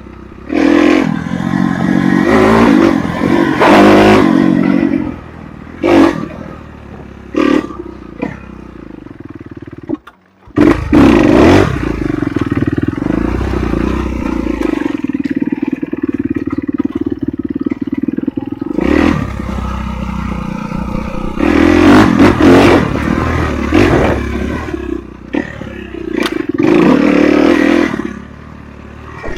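Enduro motorcycle engine being ridden off-road, the throttle opened in repeated bursts and then dropped back. The sound cuts out briefly about ten seconds in.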